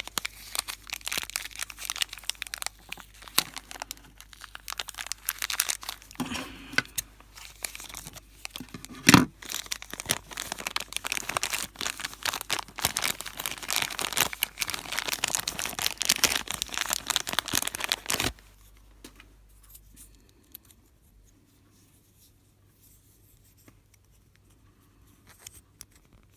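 Plastic blind-bag packet crinkling and tearing as it is handled and opened, with one sharp click about nine seconds in. The crinkling stops about eighteen seconds in, leaving near quiet.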